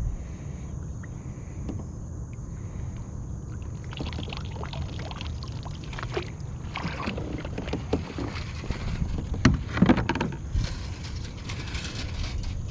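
Water splashing and dripping around a kayak in irregular bursts, the loudest a little past the middle, over a steady low rumble.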